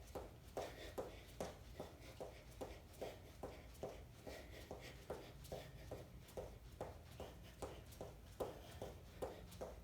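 Steady rhythmic thudding of feet landing on the floor during a bodyweight exercise, between two and three impacts a second.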